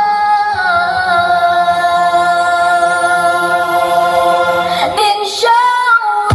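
Music played loud through a large sound system: a long held singing note with the deep bass dropped out, a quick upward sweep about five seconds in, and the heavy bass coming back right at the end.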